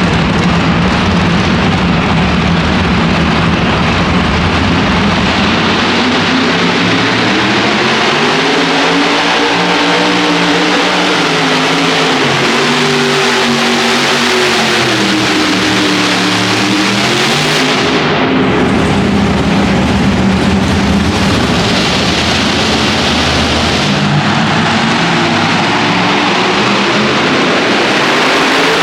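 Modified pulling tractor's engines running at full power, very loud. The pitch rises and falls several times, with a brief drop a little past the halfway point.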